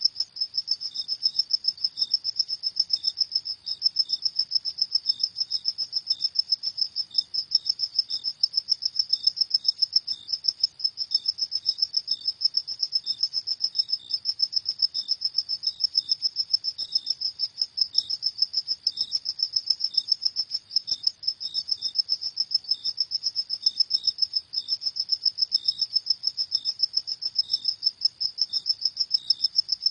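Crickets chirping steadily at night in a fast, high-pitched pulsing trill, with a fainter, slightly lower chirp repeating more slowly underneath.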